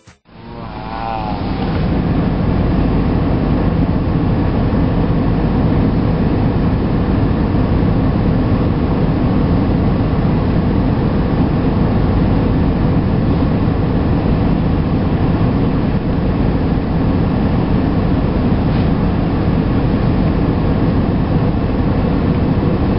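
Automatic car wash running: a loud, steady rush of machinery and water spray with a low hum, building up over the first two seconds and then holding even.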